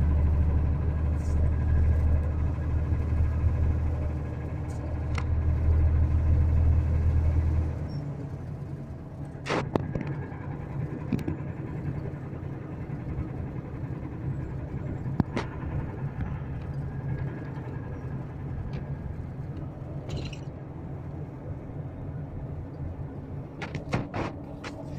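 DAF inline-six turbodiesel engine of a VDL Berkhof coach running, louder for about the first eight seconds and then settling to a lower, steady note, with a few sharp knocks. The knocking is of unknown cause, questioned as rod knock or piston slap.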